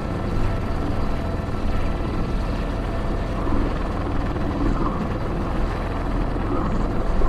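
Airbus H125 (AS350 B3) helicopter heard from the cockpit in flight: the steady drone of the rotor and turbine, with faint steady whine tones above it.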